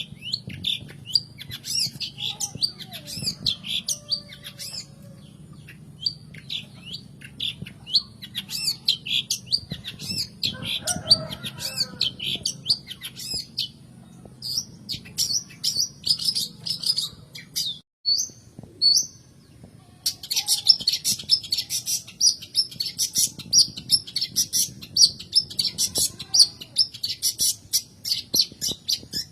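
Long-tailed shrike (cendet) chattering in fast runs of short, high calls, broken by a pause of a couple of seconds past the middle.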